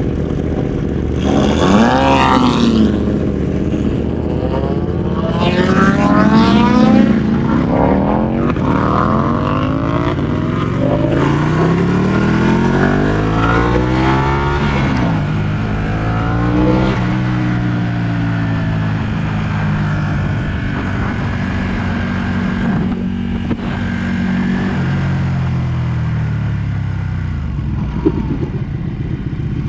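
Ducati 1199 S Panigale's 1198 cc L-twin engine under way. It revs up sharply twice, then pulls through several gears, its pitch climbing and dropping at each shift. It then slows, holds a steady pitch for a while and falls away near the end.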